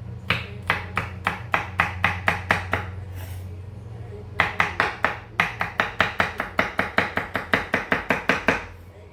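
Kitchen knife chopping celery finely on a cutting board. A run of steady chops, a pause of about a second and a half, then a faster run of about five chops a second that stops shortly before the end.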